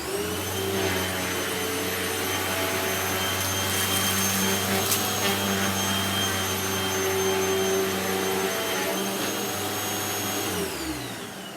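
Hoover T-Series Pet Rewind upright vacuum cleaner switched on and running steadily with a high whine over the motor hum, with a few crackles in the middle as it picks up. Near the end it is switched off and the motor winds down, its pitch falling.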